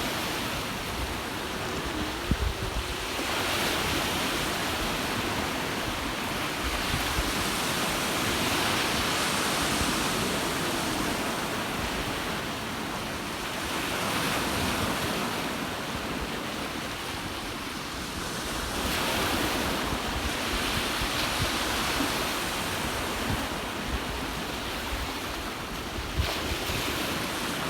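Ocean waves washing onto the shore, swelling and fading every four to six seconds, with wind buffeting the microphone.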